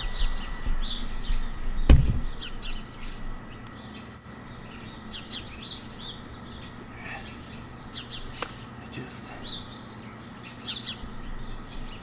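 Small birds chirping, short high calls repeated on and off throughout. A single sharp knock comes about two seconds in, over a low rumble that fades soon after.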